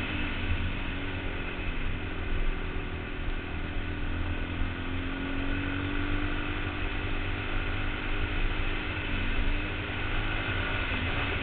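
Yamaha TT-R225 trail bike's single-cylinder four-stroke engine running under way, heard from a helmet-mounted camera. Its pitch rises gently and eases off again around the middle, over a heavy low rumble.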